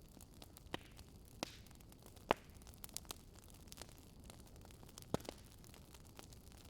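Wood fire crackling: scattered sharp pops and snaps over a low steady hiss, the loudest pops a little over two seconds in and about five seconds in.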